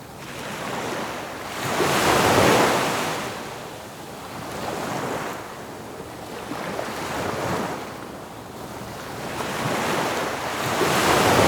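Lake Michigan waves breaking and washing up on a sandy beach, the surf swelling and fading every two to three seconds.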